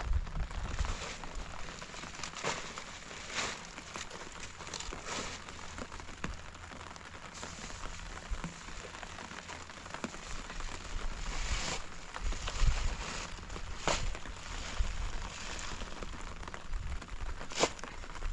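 Steady rain falling, with scattered sharp clicks and cracks.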